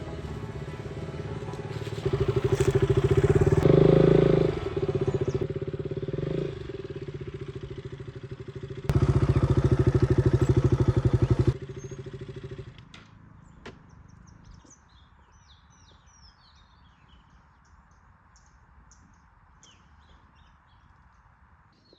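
Motorcycle engine running and revving in two loud surges, then switched off about twelve seconds in. Afterwards, faint bird chirps over a quiet steady hiss.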